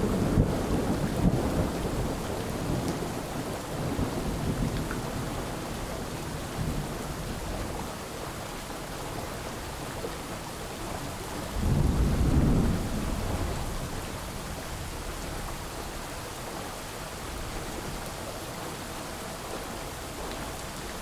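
Steady rain with rolling thunder. A rumble fades over the first couple of seconds, a smaller one comes about four seconds in, and a louder rumble about twelve seconds in lasts a second or two.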